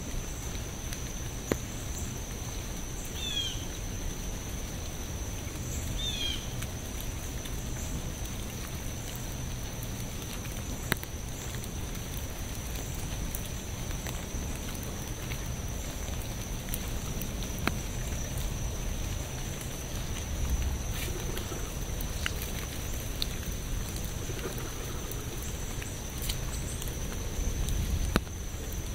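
Steady rain falling, with scattered single drops landing close by as sharp ticks. Two short high chirps come about three and six seconds in, over a steady thin high tone.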